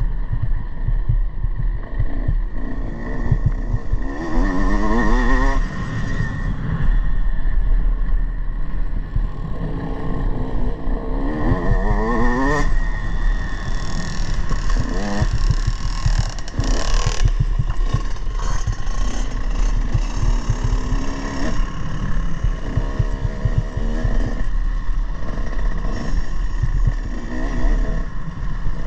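Motocross bike engine repeatedly accelerating, its pitch climbing several times as it revs up through the gears, over a constant heavy low rumble.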